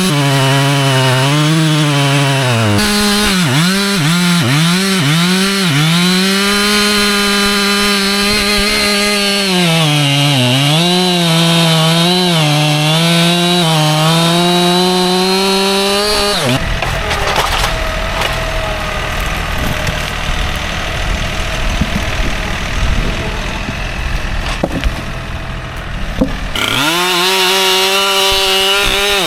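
Husqvarna chainsaw running at full throttle through white oak, its pitch dipping and recovering again and again as the chain takes load in the cut. For about ten seconds past the middle the steady engine note gives way to a rougher noise with a few knocks, then the high saw note returns near the end.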